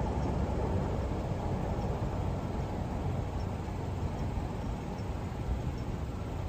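Steady low rumble of a metro train running, easing off a little in level.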